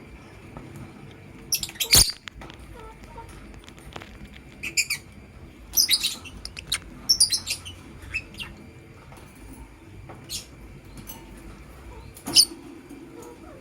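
Lovebirds giving short, high chirps in scattered bursts, with one sharp knock about two seconds in.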